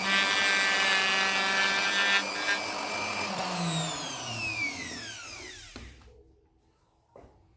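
Handheld wood router running at full speed in teak, a steady high whine, then switched off about three seconds in and winding down, its pitch falling away until it stops. A light knock follows near the end.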